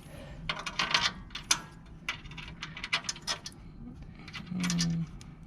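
Irregular metallic clicks and clinks of bolts, nuts and hand tools as a blower motor is bolted into its mount, with a short low hum near the end.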